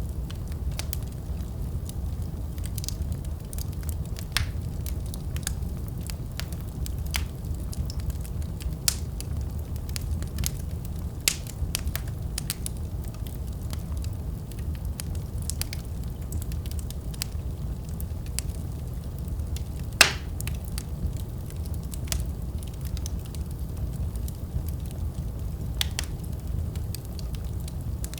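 Wood fire crackling in a fireplace: a steady low rumble of burning with irregular sharp crackles and pops, one louder pop about two-thirds of the way through.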